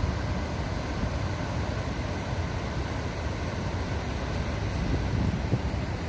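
Waterfall: a steady, unbroken rush of falling water with a deep low rumble.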